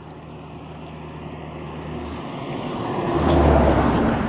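A heavy truck passing close by on the highway, its engine and tyre noise growing steadily louder and loudest near the end.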